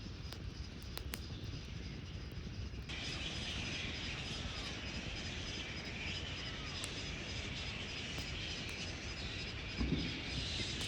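Steady low rushing background with a few sharp clicks. About three seconds in, a night insect chorus starts abruptly: a dense high buzz with a steady pulsing trill above it, and a few faint short chirps.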